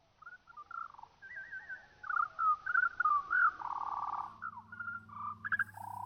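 Birdsong: a run of varied chirps, quick trills and warbles. A steady low hum comes in about four seconds in.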